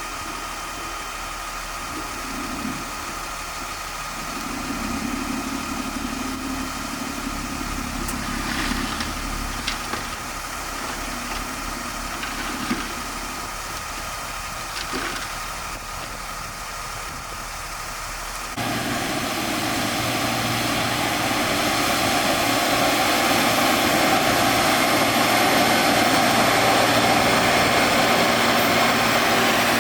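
Engine running steadily with a few light knocks. About two-thirds of the way in the sound switches abruptly to a louder, steadier hum.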